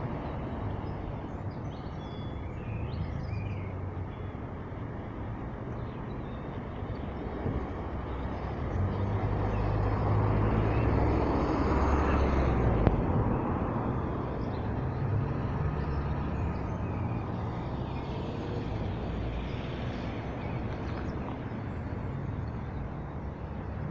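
Steady rumble of passing vehicles, swelling as one goes by about halfway through and then fading again.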